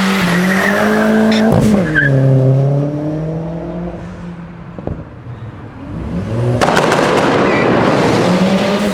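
A car's engine accelerating hard, its pitch dropping sharply at a gear change about a second and a half in, then fading away. After a brief lull, another loud car comes in with a rough, noisy exhaust and engine note, which rises again near the end.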